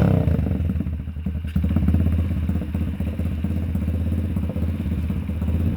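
X Pro Hawk 125cc dirt bike's single-cylinder four-stroke engine idling in neutral just after being started, dipping briefly about a second in before settling back.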